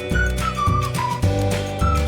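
Background music: a whistled or flute-like melody stepping downward over a steady bass and beat.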